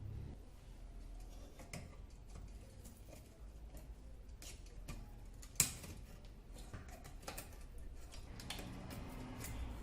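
Scattered light clicks and taps of metal parts of an old oil lantern being handled, with one sharper click about five and a half seconds in.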